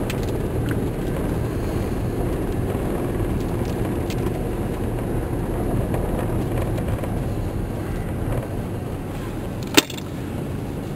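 Vehicle driving on a snowy road, heard from inside the cab: a steady low rumble of engine and tyres, with one sharp knock near the end.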